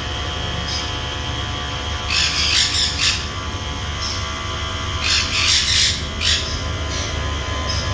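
Caged aviary birds squawking and chirping: short high chirps, with two louder harsh bouts of squawking about two and five seconds in, over a steady low hum.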